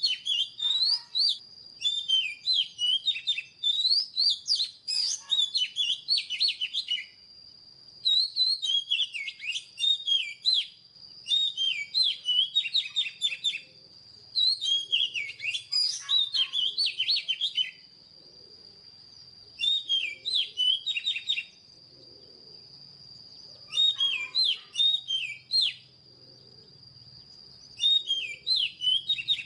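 Oriental magpie-robin singing: repeated phrases of quick, sweeping whistles and chirps, each a second or three long, with short pauses between them. A faint, steady high-pitched tone runs underneath.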